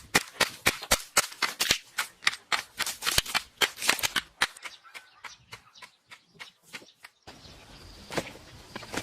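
A fast run of sharp knocks, several a second, thinning out and fading about halfway through, followed by a soft steady hiss with a few knocks.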